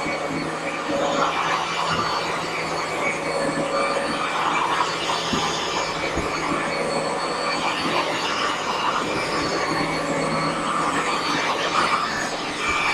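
Hoover Dual Power Pro carpet washer running with its motor on and suction pulling through the nozzle: a pretty loud, steady mechanical hum with a rushing noise that swells and fades.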